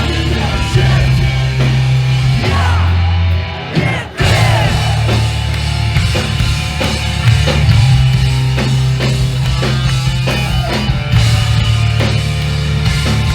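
A hardcore punk band playing live and loud: distorted guitars, heavy bass and a drum kit. The band drops out briefly about four seconds in, then crashes back in.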